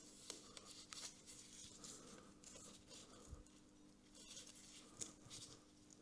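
Near silence: faint rustling and a few small clicks over a low, steady hum.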